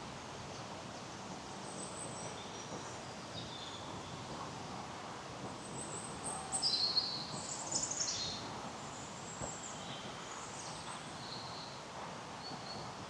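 Small songbirds chirping and singing in short high phrases over a steady outdoor hush, with the busiest, brightest song about six to eight seconds in.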